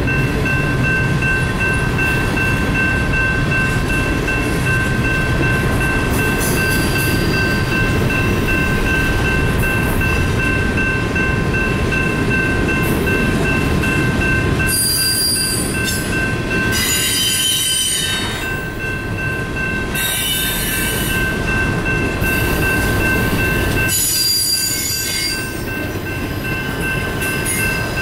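Double-stack intermodal freight train rolling past, a steady rumble of wheels on rail, with bursts of high-pitched wheel squeal about halfway through and again near the end. A grade-crossing bell rings steadily underneath.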